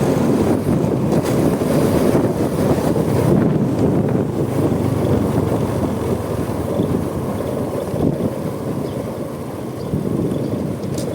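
Steady wind buffeting on the microphone of a moving motorcycle, the Honda Supra X 125, with its engine and road noise underneath.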